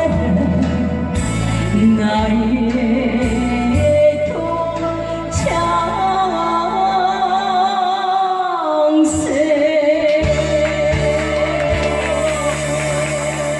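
Woman singing a Korean trot song over a backing track, holding long notes with vibrato near the end of the song.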